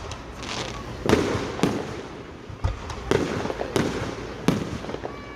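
Fireworks going off: about five sharp bangs spaced roughly half a second to a second and a half apart, with crackling between them.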